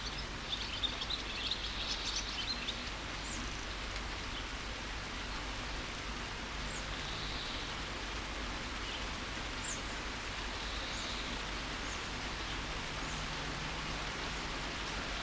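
Steady rain hiss with small birds chirping through it: a burst of twittering in the first few seconds, then scattered short, high chirps.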